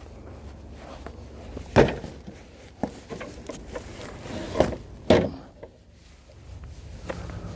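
Split firewood being handled, with wooden knocks as logs strike each other: three loud knocks, the last two close together about two-thirds of the way in, among lighter clicks, over a low steady hum.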